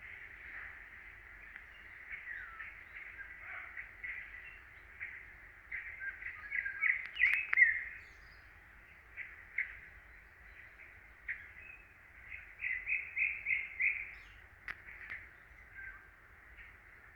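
Small songbirds chirping and whistling in a forest, with short runs of rapid notes about six seconds in, the loudest, and again near twelve to fourteen seconds, over a faint low background rumble.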